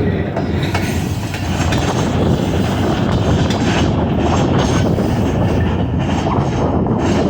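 Train cars rolling past at close range: a steady, loud rumble of wheels on rail with faint clicking over the joints.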